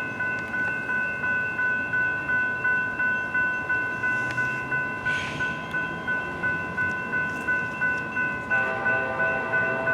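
Railroad grade-crossing warning bells ringing in a steady, even rhythm of about two strikes a second. A second bell joins in with lower tones near the end.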